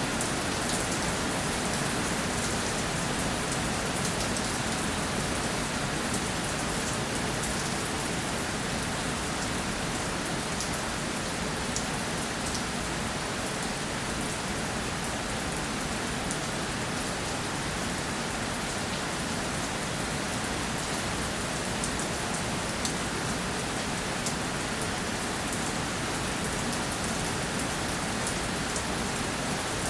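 Steady rainfall, a continuous hiss with many fine drop ticks of rain landing on a surface.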